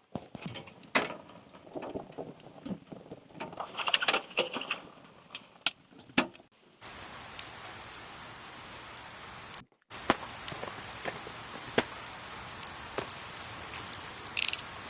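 Scattered knocks and clicks with a brief hiss, then, after a cut, steady rain with sharp drops pattering.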